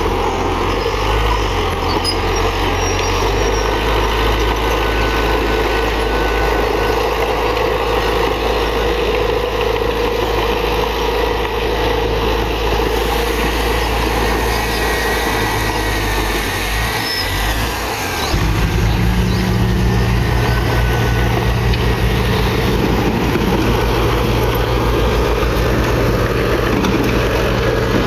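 Diesel engines of heavy earthmoving machinery running steadily. About eighteen seconds in, a deeper, louder engine note takes over.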